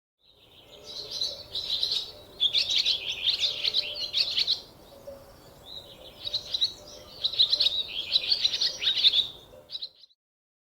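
A squirrel giving rapid, high-pitched, bird-like chirping calls in two long bouts, with a short lull in between.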